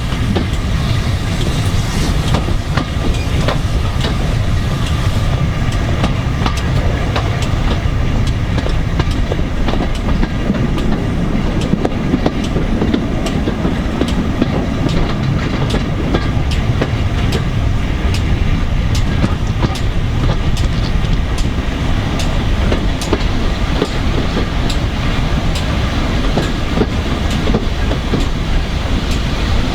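Steam-hauled passenger train running at speed: a loud, steady rumble of wheels on the rails, with frequent clicks over the rail joints.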